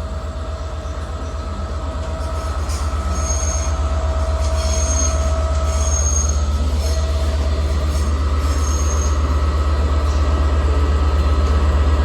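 Passenger train moving at the platform, its wheels giving short high-pitched squeals several times over a steady low hum and a mid-pitched whine, growing gradually louder.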